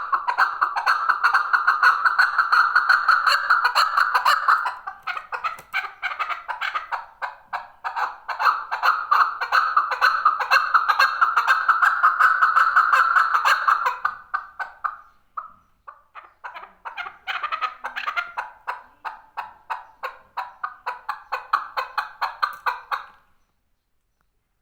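Male chukar partridge calling with long runs of rapid repeated notes. There are three bouts: a short break about 5 seconds in, a gap after about 14 seconds, then a fainter run that stops shortly before the end.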